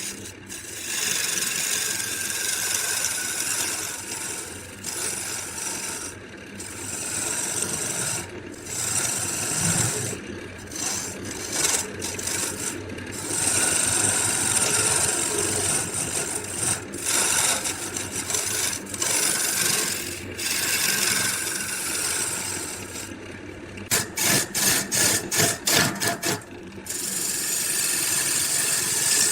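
Wood being scraped or rasped by hand, a continuous rough rubbing with short pauses, then a quick run of short strokes, about three or four a second, near the end.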